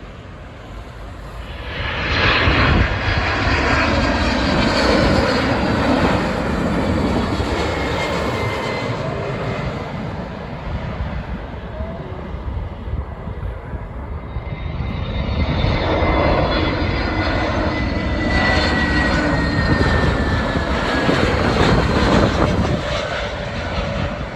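Two jet airliners passing low on landing approach, one after the other: first a Boeing 767-300ER, then an Airbus A321neo. Each one's engine noise swells and fades, with a high whistling fan whine that slowly falls in pitch as the plane goes by.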